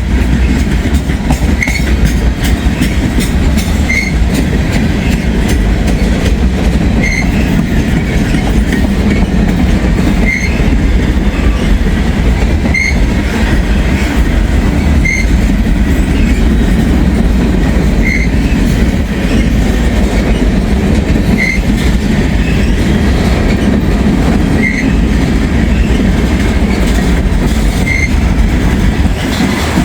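Freight train cars rolling past at close range: a steady, loud rumble of steel wheels on rail, with a short high squeak coming back about every two seconds.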